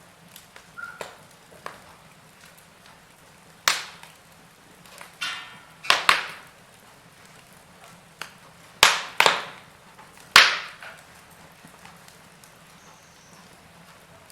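Wood fire crackling: burning logs give a series of sharp pops and snaps, several in quick succession in the middle and the loudest near the end, over a soft steady hiss.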